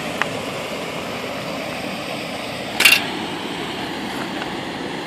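Camera handling noise: a small click just after the start and a short, loud rustling knock about three seconds in, over a steady outdoor background hum.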